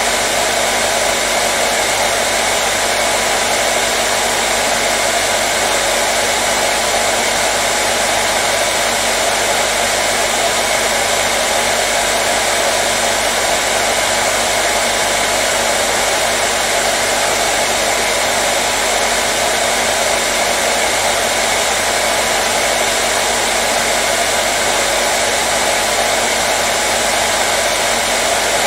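Electric hairdryer running steadily: a constant fan-and-motor rush with a faint steady hum under it, played continuously as soothing white noise for a colicky baby.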